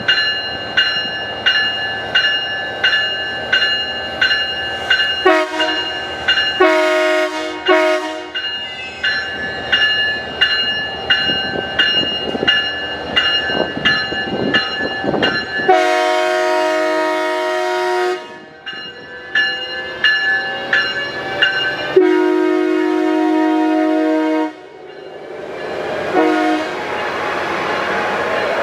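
Amtrak Pacific Surfliner locomotive bell ringing steadily, about two strikes a second, with the multi-note air horn sounding over it: two short blasts, then long, long and short, the opening of the grade-crossing signal.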